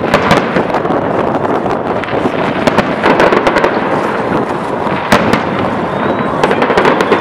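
Fireworks display: aerial shells bursting overhead in a rapid run of sharp cracks and pops over a continuous wash of noise, with a loud single crack about five seconds in.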